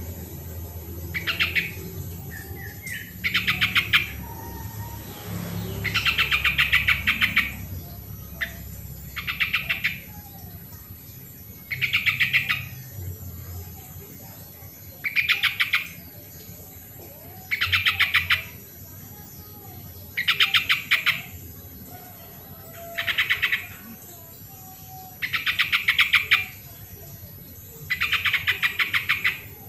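Yellow-vented bulbul (trucukan) singing: a loud, bubbly phrase of rapid notes about a second long, repeated every two to three seconds.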